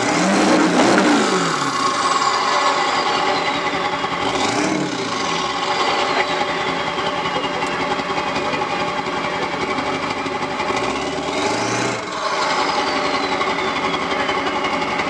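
Straight-piped 7.3 Powerstroke V8 turbo-diesel revved three times, near the start, about four and a half seconds in and about eleven seconds in. Each time it falls back to a clattering idle with a high whine sliding down as the revs drop.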